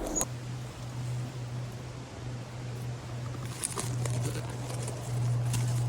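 Footsteps and rustling through woodland undergrowth, with a few light snaps, over a steady low hum.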